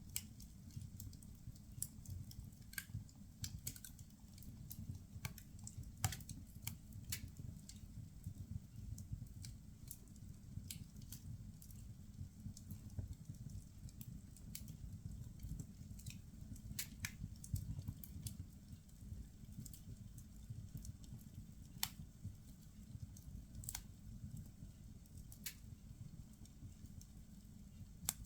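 Firewood burning in a fireplace: irregular crackles and sharp pops over a steady low rumble, with a few louder pops about six seconds in and again near the end.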